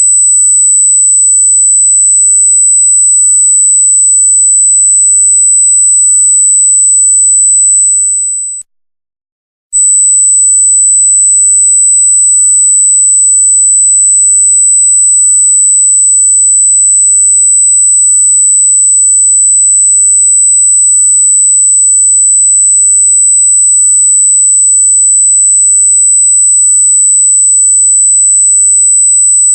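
Loud, steady, high-pitched electronic sine tone. It fades briefly just before nine seconds in, drops out for about a second, then comes back at full level.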